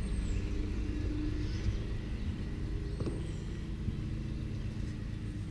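Steady low outdoor rumble, with a faint high chirp twice and a light click about three seconds in.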